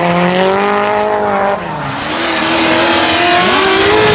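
A drift car's engine held at high revs while its tyres squeal through a slide. The engine note swells and dips, breaks off about a second and a half in, then climbs steadily again.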